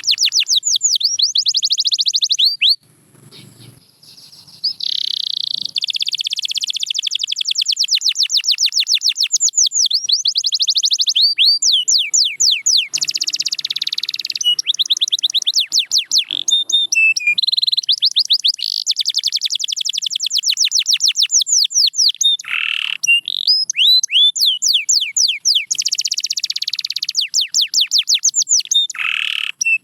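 Domestic canary singing a long song of fast trills: runs of rapidly repeated high notes, changing from one trill to the next, with a brief pause about three seconds in.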